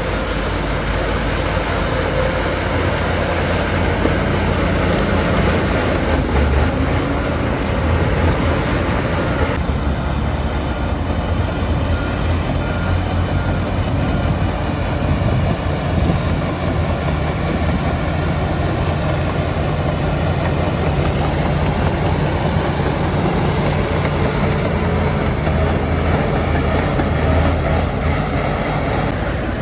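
Heavy diesel earthmoving machinery running steadily at a landfill site, with a shift in its sound about ten seconds in.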